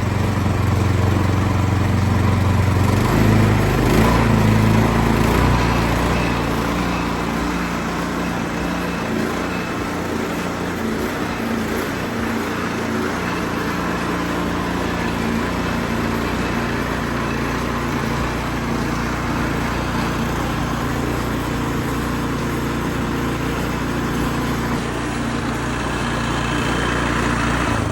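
Troy-Bilt snowblower's single-cylinder engine running smoothly and steadily, its carburetor freshly cleaned. It runs a little louder for the first five seconds or so, then settles to an even run.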